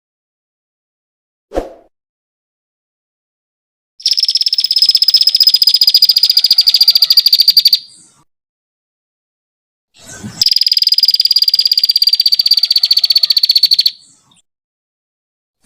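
A small songbird singing two long, very fast trills of about three and a half seconds each, high-pitched and drifting slightly downward, with a pause between them. There is a short knock before the first trill.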